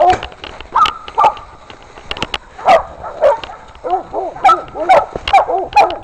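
Catahoula hog dogs barking over and over, sparse at first and then coming quickly, about three barks a second, in the second half: dogs baying a hog.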